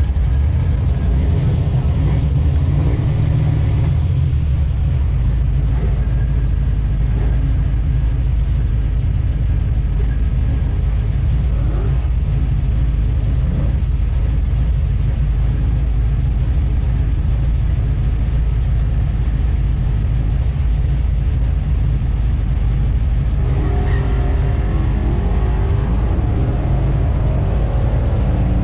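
A car engine running with a steady low rumble, holding an even level throughout.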